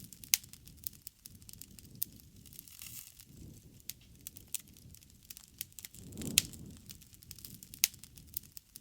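Wood bonfire crackling, with irregular sharp pops and snaps over a low rush of burning. A louder low swell comes about six seconds in, with one strong pop in it.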